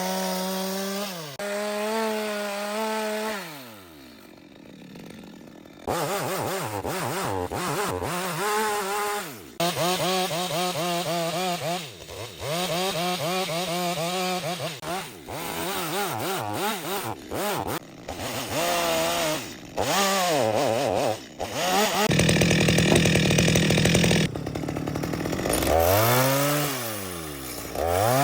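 Chainsaw cutting wood, its engine pitch wavering as it loads up in the cut. It drops away about three seconds in and revs back up a couple of seconds later. Near the end it revs down and up again.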